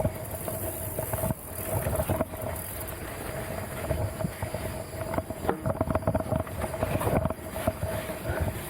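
Mountain bike rattling and knocking as it rides over rough, technical trail, with dense irregular jolts, under a steady faint whine.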